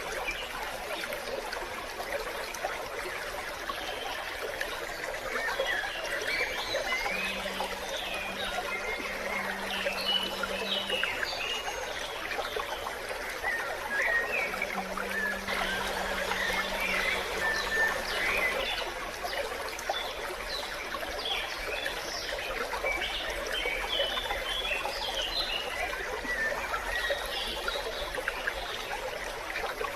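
Small stream running with a steady trickle, with birds chirping on and off throughout.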